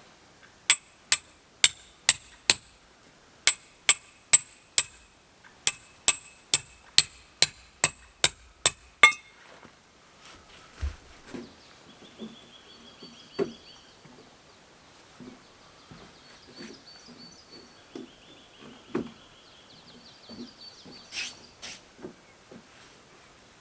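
Metal hammer striking tent pegs into the ground: sharp, ringing blows about two or three a second in three runs, stopping about nine seconds in. After that a bird calls repeatedly with short high trills, over soft low thumps.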